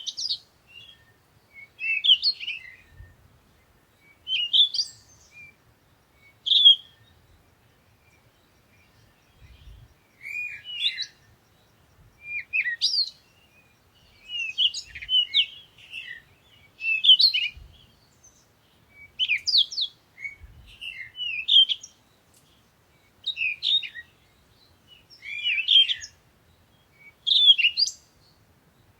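A songbird singing short, high twittering phrases, one about every two seconds with brief pauses between.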